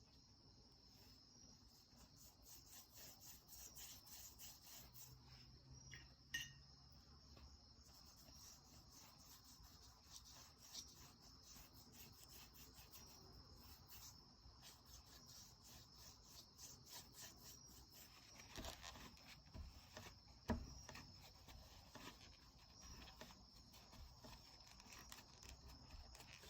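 Faint scratchy rubbing of a watercolor brush stroking over paper while blending paint out with water, with a couple of light taps.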